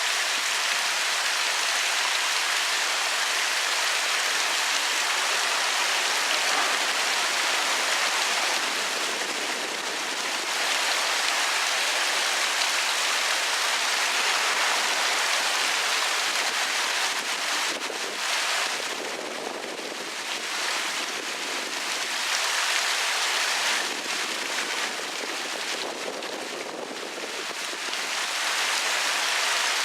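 Waterfall: a steady rush of falling water, a little softer for stretches in the second half.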